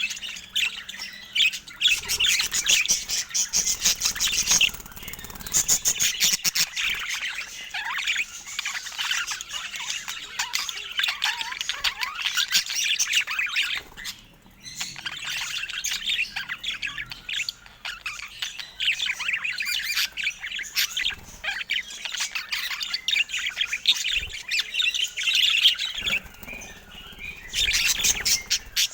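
Budgerigars chattering: a fast, continuous warble of chirps and squawks, with a brief lull about halfway through.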